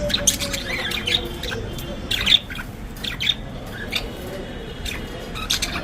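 Budgerigars chattering: short, sharp squawks and chirps in quick, irregular succession.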